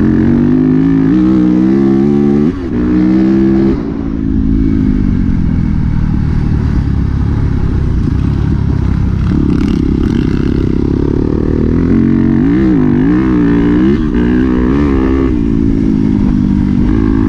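Dirt bike engine under way on a trail, its pitch climbing through the gears with a brief break about two and a half seconds in, then running steadier before revving rapidly up and down near the end.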